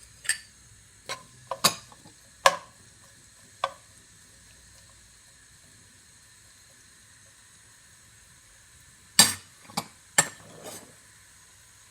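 A cooking utensil knocks and scrapes against a wok while onions and garlic fry in oil, with a faint sizzle underneath. There are about five sharp knocks in the first four seconds, a pause, then a few more near the end.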